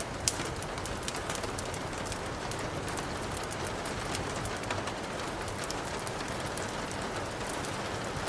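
Steady rain falling, an even hiss of patter with scattered sharp ticks of drops.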